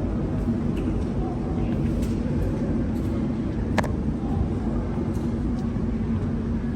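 Steady low rumble and hum of a metro station, with one sharp click about four seconds in.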